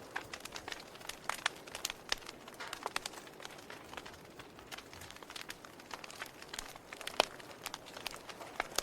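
Wood fire crackling: irregular sharp pops and snaps of burning wood over a soft hiss, with one louder pop a little after seven seconds.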